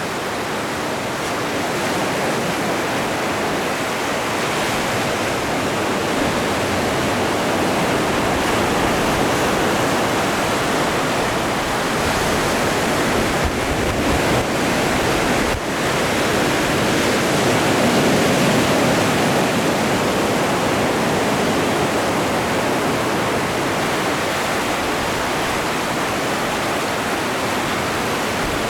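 Ocean waves breaking and washing onto the shore: a continuous rush of surf that swells a little past the middle.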